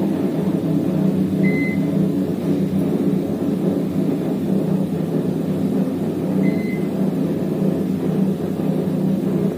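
An IFB convection microwave oven running with a steady hum. It gives two short high beeps, about five seconds apart.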